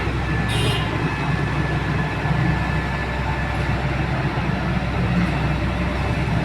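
Heavy excavator's diesel engine running steadily at a construction dig, with a brief high metallic clink about half a second in.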